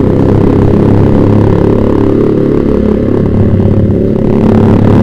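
Yamaha Vixion's 150 cc single-cylinder four-stroke engine running steadily under way through a Proliner TR1 short aftermarket exhaust, the note loud and pulsing. It sounds full and throaty at low revs.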